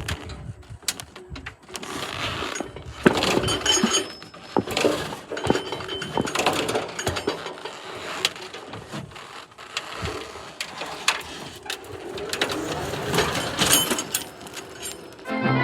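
Irregular metal clanks, knocks and rattles from unloading garden tractors over an aluminum diamond-plate truck deck and steel ramps, with a few short ringing pings.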